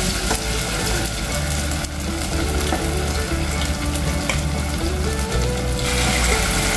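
Spoonfuls of corn fritter batter frying in hot oil in a deep saucepan, with a steady sizzle as each fritter is dropped in.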